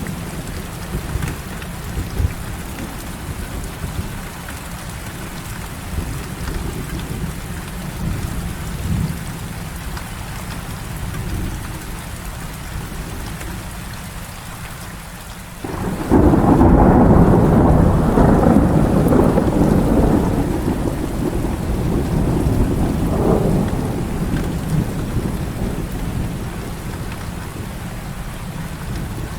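Heavy rain falling steadily, with low thunder rumbling under it. About halfway through a loud thunderclap breaks in suddenly and rolls away over several seconds.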